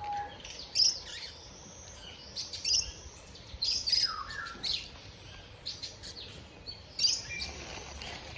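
Several birds chirping and calling, short high calls coming irregularly throughout, a few of them sweeping down in pitch.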